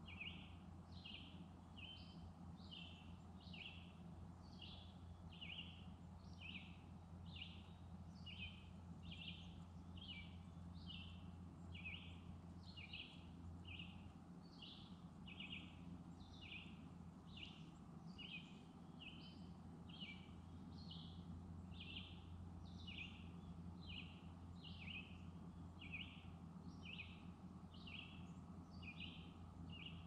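A bird repeating one short, high chirp over and over at a steady pace, a little under two a second, faint, over a low steady hum.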